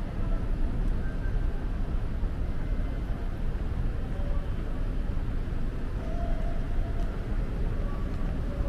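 Steady low rumble of city traffic, with a few faint short tones above it.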